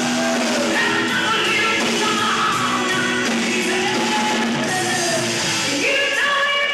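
Live rock band playing, with a singer's voice held over guitar.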